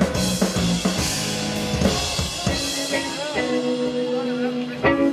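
Live rock band playing an instrumental passage: drums with a cymbal wash, then long held notes, with sharp drum hits coming back in near the end.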